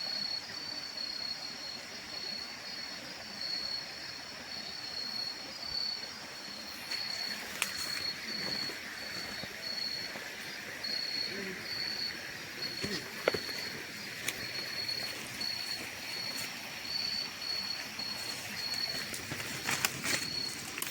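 Crickets chirping in a steady, rapid pulsing trill. A few sharp clicks or rustles break in, more of them near the end.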